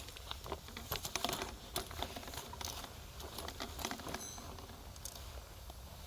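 Wood campfire crackling, with a dense run of sharp snaps and pops over the first four seconds that thins out toward the end.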